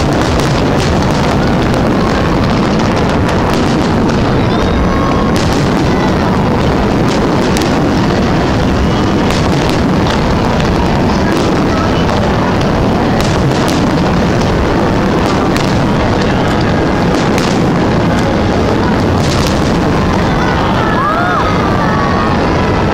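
Fireworks bursting in quick succession: a steady rumble of booms with many sharp bangs and crackles on top, loud and overloading the recording.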